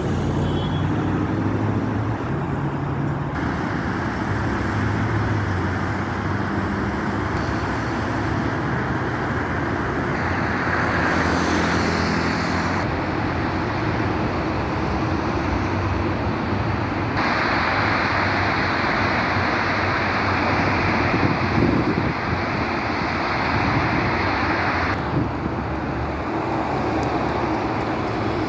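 Steady road traffic noise from a busy multi-lane road, its sound shifting abruptly every few seconds.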